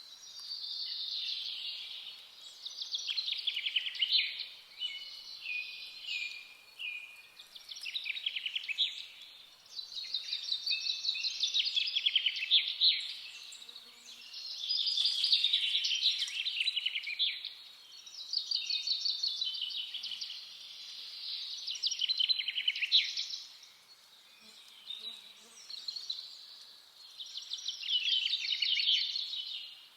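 A songbird singing: high, rapid trilled phrases, each a second or two long, repeated about every three seconds with short pauses between.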